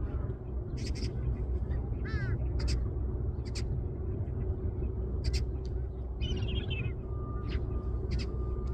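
Birds at a vulture feeding ground calling: a string of short, sharp calls repeated every second or so, a quick warbled call about two seconds in and a rippling call past the middle, over a steady low rumble.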